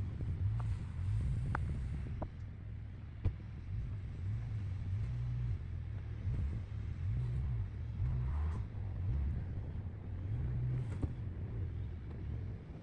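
Car stuck in deep snow, its engine running under a low, uneven rumble as it tries and fails to drive out.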